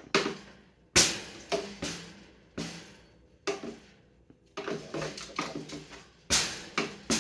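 Irregular sharp knocks and clanks, about fifteen of them, each with a brief ringing tail, as a hard object is struck or banged about in an African grey parrot's cage during its play.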